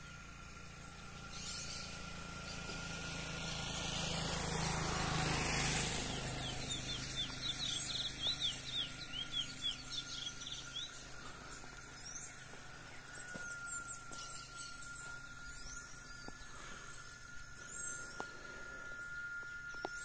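Birds singing in the open: a quick run of short, rising high notes in the middle, with scattered calls later. A gust of wind rushes over the microphone in the first few seconds, the loudest sound here, and a thin steady high tone runs underneath, growing stronger in the second half.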